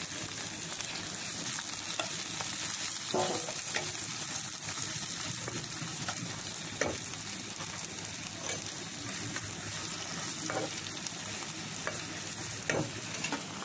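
Chopped garlic and onion sizzling in hot oil with cooked greens in a pan, stirred throughout, with about five short scrapes or knocks of the stirring utensil against the pan.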